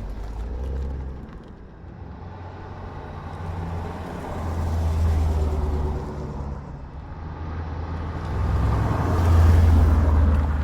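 Cars driving past one after another, their engines making a deep rumble that swells as each one goes by, loudest near the end.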